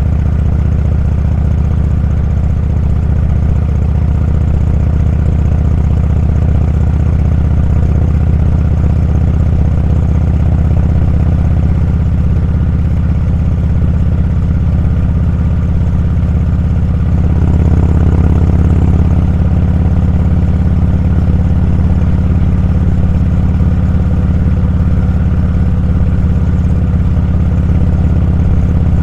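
Motorcycle engine running steadily while riding, a low, even drone that gets a little louder a little past halfway.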